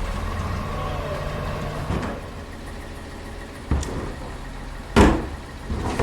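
CCC LET2 garbage truck engine idling with a steady low hum that drops in level about two seconds in. Several sharp knocks break over it, the loudest about five seconds in.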